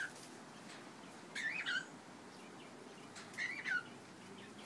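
Cockatiel calling twice, short chirps that waver up and down in pitch, about two seconds apart.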